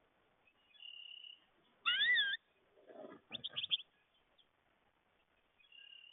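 American goldfinch calling: a thin held note, then a loud wavering call that glides up and down about two seconds in, followed by a quick run of short chips, and a faint held note near the end.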